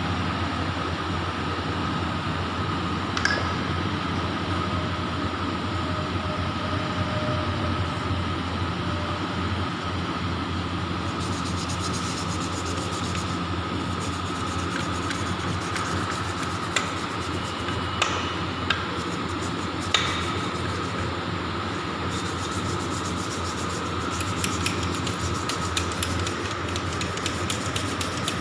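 A steady mechanical hum with a high whine runs throughout, with a few sharp metallic knocks. From about 24 seconds in comes a run of fast tapping.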